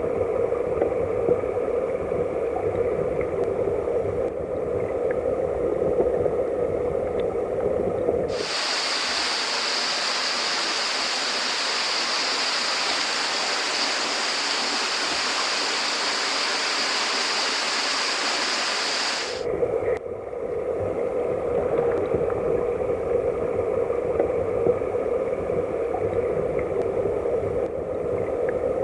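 Mountain headwater stream rushing, muffled and low-pitched. About eight seconds in it switches abruptly to a bright, hissing rush of splashing water for about eleven seconds, then cuts back to the muffled sound.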